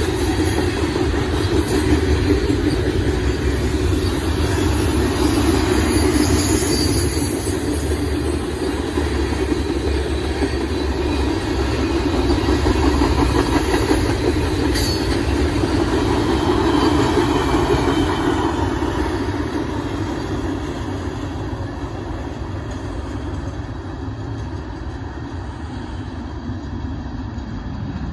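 Freight cars of a long Union Pacific manifest train rolling past: a steady rumble of steel wheels on rail, which grows quieter over the last several seconds as the end of the train moves away.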